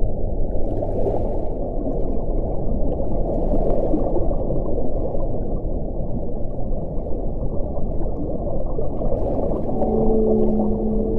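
Wind blowing as a steady low rushing, with a few faint gusts brushing higher. Low held tones join it near the end.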